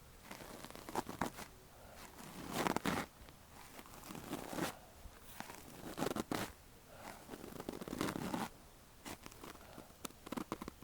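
Close-up scratching and crackling of an ear-cleaning tool working inside an ear, in uneven strokes every second or two with short pauses between.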